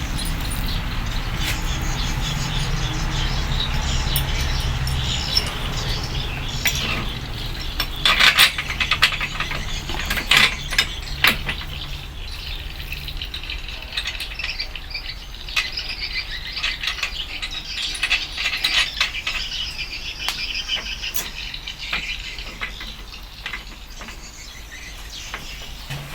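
Small metal parts and hand tools clinking and clattering, with a steady low hum that fades out about halfway through.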